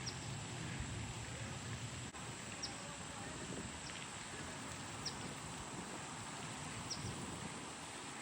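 A small bird calling: short, high, slightly falling chirps repeated every one to two seconds, over a steady outdoor hiss.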